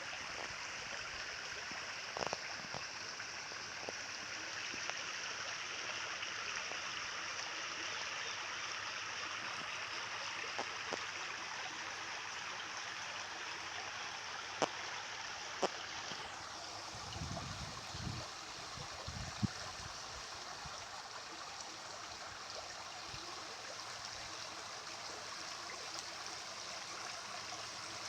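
Flowing water running steadily, like a stream. A few sharp clicks stand out, and there is a cluster of low thumps a little past halfway.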